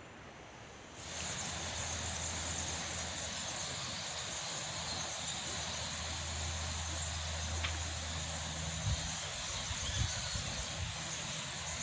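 Outdoor nature ambience: a steady, high-pitched insect chorus over a low, steady rumble, starting about a second in. A few low thumps come near the end.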